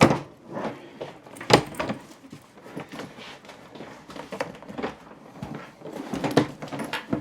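Irregular knocks, clacks and rattles from the plastic and metal parts of a telescopic suitcase handle being worked by hand, with a few sharper knocks near the start, around a second and a half in, and late on.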